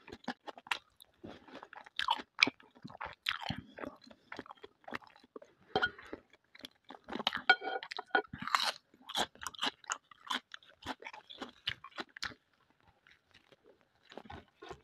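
Close-miked eating of boiled pelmeni dumplings: biting and chewing with many short mouth clicks and smacks, pausing briefly near the end.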